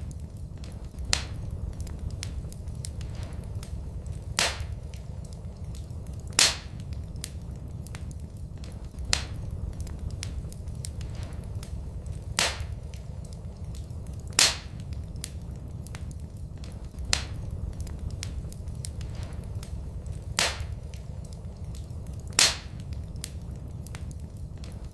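Wood fire burning in a fireplace: sharp crackles and pops every second or two over a low, steady rumble of flame.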